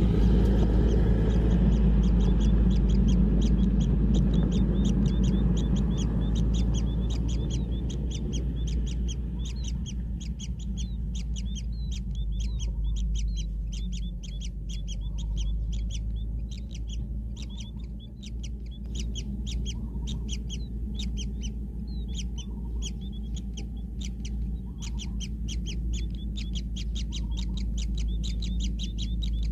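Kingfisher chicks calling in a fast, continuous run of short high chirps. Under them a low rumble is loudest in the first few seconds and then eases.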